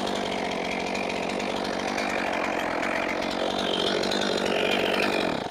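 Frontier OS27 portable bandsaw sawmill running steadily on its small gas engine, then shut off abruptly near the end.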